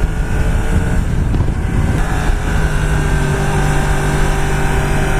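Yamaha R1 sport bike's inline-four engine running at steady revs under way, with road and wind noise; its pitch shifts about one and two seconds in.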